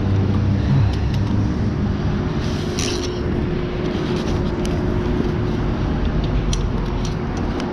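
Hawk 250 motorcycle engine running steadily, its note shifting about a second in.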